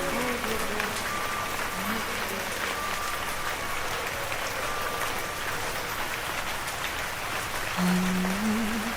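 Steady rain falling, an even hiss of drops. Near the end a held, wavering musical note begins as the next song starts.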